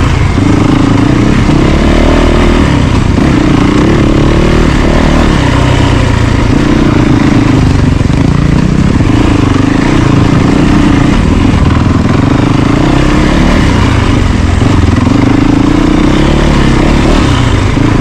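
Yamaha YZ450FX's single-cylinder four-stroke engine running under a rider, its revs rising and falling again and again as the bike is ridden over the trail.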